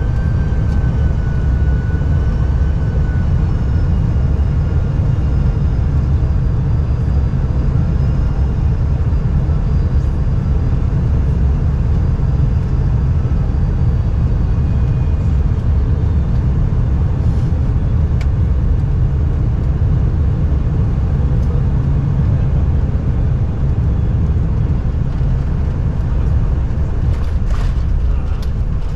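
Steady low rumble inside a moving vehicle, with faint high whines slowly falling in pitch. A few short clicks come near the end.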